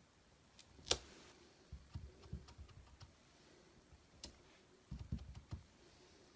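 A sharp click about a second in, then two clusters of soft, dull taps, around two seconds and around five seconds in: a clear photopolymer stamp on its block being dabbed on an ink pad and pressed onto cardstock.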